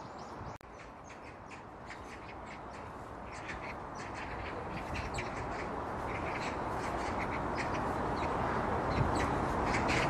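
Birds chirping and calling, many short high notes, over a steady background noise that grows slowly louder.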